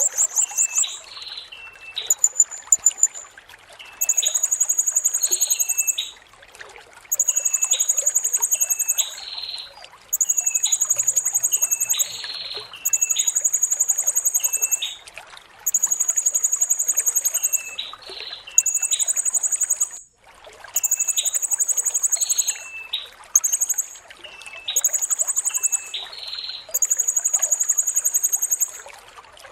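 Blue-crowned hanging parrot (serindit) singing: repeated high-pitched rapid trills, each about two seconds long, with short pauses between them. Softer short chirps sit under the trills, over a steady trickling-water background.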